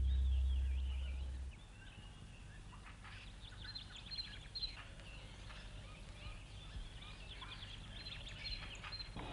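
Faint birds calling in a string of short high chirps and warbling glides. The low tail of a music cue fades out in the first second and a half.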